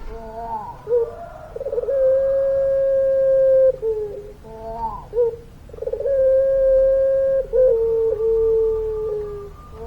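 Puter pelung turtle dove cooing: two long calls, each opening with a short warbling stutter and then held on one steady note. The second call steps down in pitch partway through and holds on for several more seconds.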